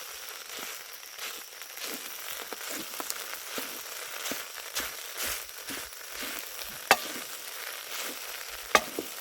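Steady sizzling and crackling of cooking over a campfire, with scattered small crackles and two sharp pops, about seven and nine seconds in.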